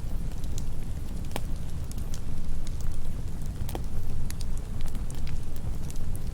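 Campfire burning: a steady low rumble with scattered sharp crackles and pops from the burning wood, about two a second.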